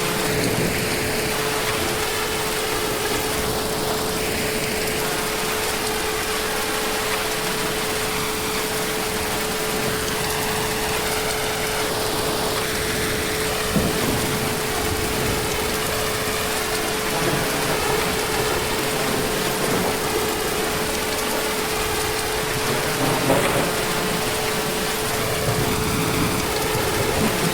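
Heavy rain falling steadily, with a faint steady hum underneath and a couple of sharper drop hits, one about halfway through and one later on.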